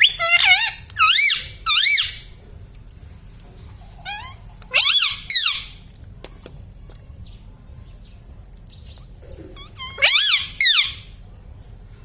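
Ringneck parrot giving loud, high, warbling calls: a quick run of three near the start, another burst about five seconds in, and a last one about ten seconds in.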